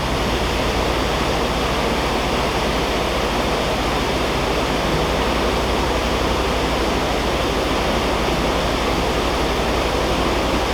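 Steady, loud rush of water at a canal lock, as water pours through the lock.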